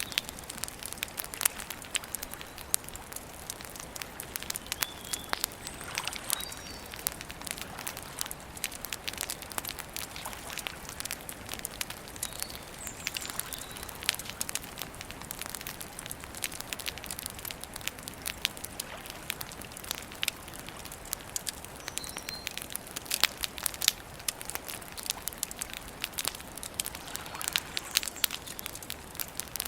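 Campfire crackling and popping steadily, with dense irregular snaps over a soft hiss of burning wood. Faint short bird chirps come through now and then.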